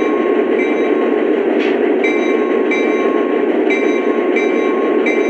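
Lionel BNSF SD70MAC model locomotive pulling a set of coal cars around the track. It makes a steady running rumble, with a faint short tone repeating about every two-thirds of a second.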